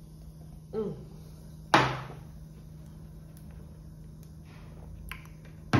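Two sharp knocks on a hard surface, one about two seconds in and a second at the very end, over a steady low hum.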